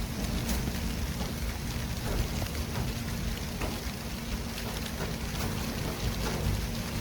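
City traffic ambience: a steady wash of tyre and engine noise with a low rumble underneath and a few faint ticks.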